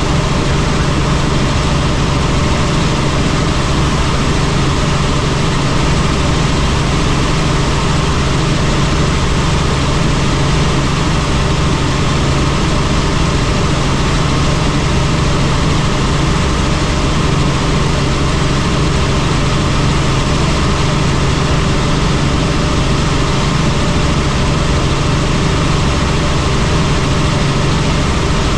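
Helicopter in steady flight: the constant, loud drone of its engine and rotors, a low hum over a dense rushing noise, unchanging throughout.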